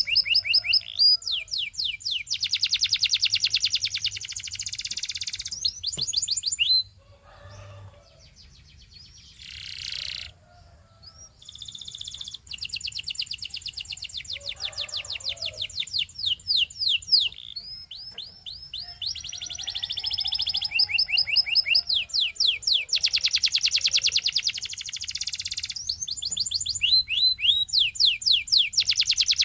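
Domestic canary singing: long, fast trills of rapidly repeated high notes mixed with runs of rising chirps. The song drops away about seven seconds in, with only a short burst, and picks up again about five seconds later.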